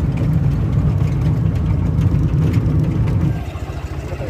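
Vehicle engine running with a steady low rumble, easing slightly about three seconds in.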